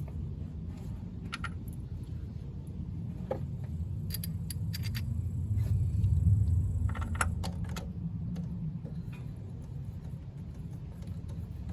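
Light metallic clinks and rattles of hand tools being handled during a spark plug change, in short clusters, over a low steady rumble that swells near the middle.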